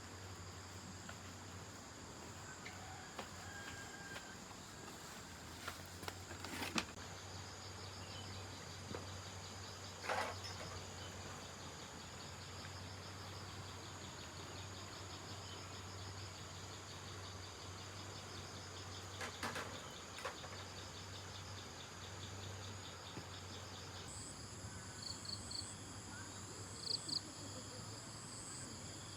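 Insects, crickets or similar, calling steadily: a continuous high trill with a second, pulsing trill, changing to a different chirping pattern about two-thirds of the way through. A few brief knocks stand out above them.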